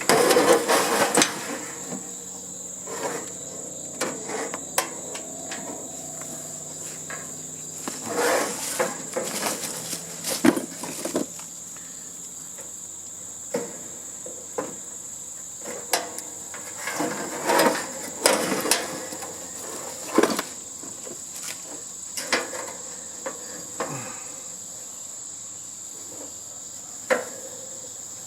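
Metal parts of a heating and air-conditioning unit clanking and rattling as it is taken apart, with a burst of clatter in the first second and scattered knocks after. A steady high-pitched whine runs underneath.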